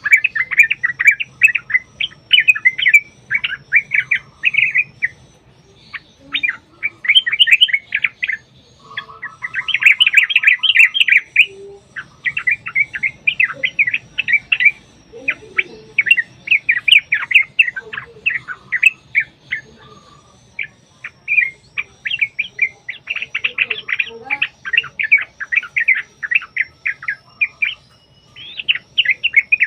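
Yellow-vented bulbuls (trucukan) singing long, rapid runs of bubbly chirping notes in phrases of one to three seconds, broken by short pauses, the territorial 'ropel' song used to provoke another bulbul into answering.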